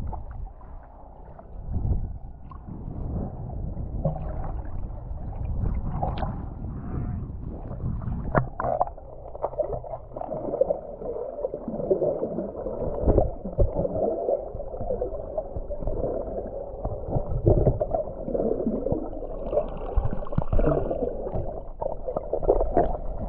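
Muffled water sloshing and gurgling, heard through an underwater or housed camera, with uneven swells and a few knocks throughout.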